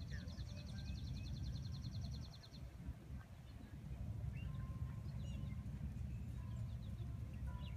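Songbird singing a rapid, even trill for the first two and a half seconds, then scattered short chirps, over a steady low outdoor rumble.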